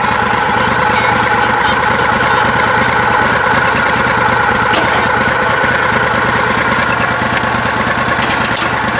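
Lifted, modified riding lawn tractor's engine running steadily.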